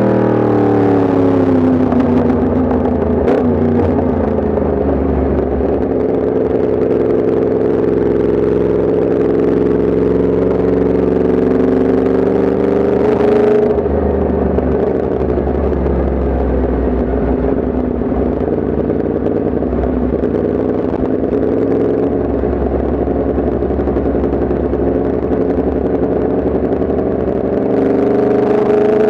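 Yamaha MT-10 SP's crossplane inline-four engine on the move. The revs fall over the first few seconds, the engine runs at low steady revs with a brief change about halfway, and the revs rise again near the end.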